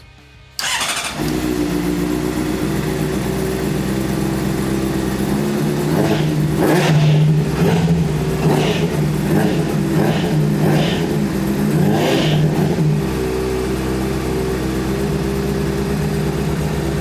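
2008 Honda CBR600RR inline-four engine starting about half a second in and settling into a steady idle. In the middle it is revved up and down several times in a row, then drops back to idle.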